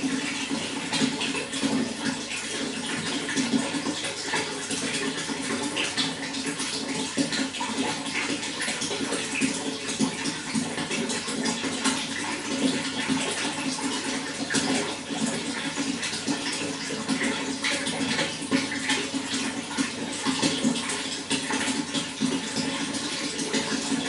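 Running water flowing continuously, a steady splashing rush with many small droplet splashes.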